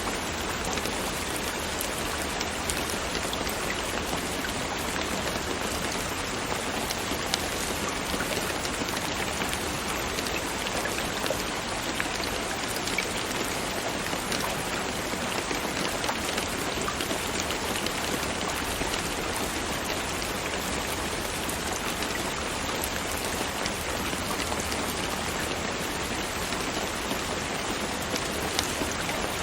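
Steady rain falling, an even hiss with a louder single drop standing out now and then.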